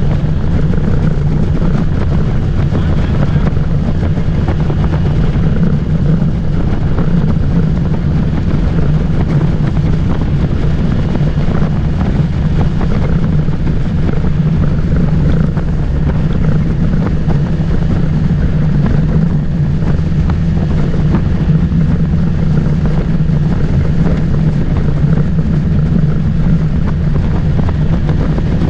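Motorboat engine running steadily under way, with water and wind noise buffeting the microphone.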